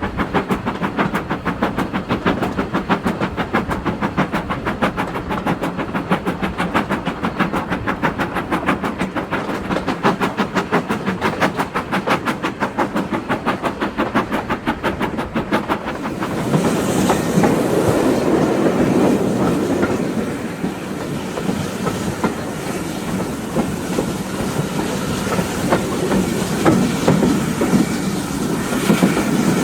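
Steam locomotive No. 9351, a two-cylinder 2-6-0, working hard with its exhaust beat a fast, even chuffing of about five beats a second. About halfway through the beat fades into a steady rushing, rumbling noise of the moving train.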